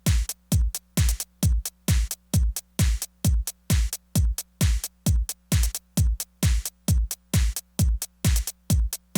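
Korg Electribe Sampler playing a sparse electronic drum loop: a deep kick drum about twice a second with short hi-hat ticks on it, and near silence between the hits.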